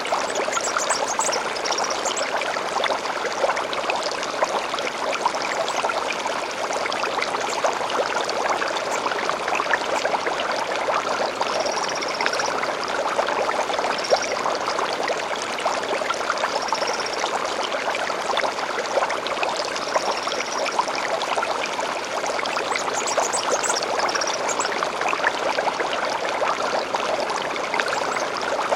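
A stream flowing steadily, with short, high bird chirps now and then.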